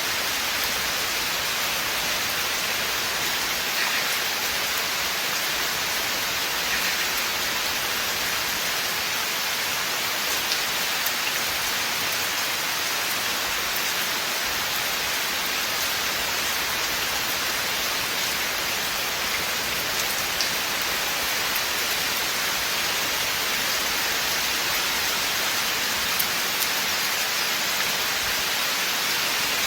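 Steady rain falling in a forest, an even hiss with the odd sharper drop tick.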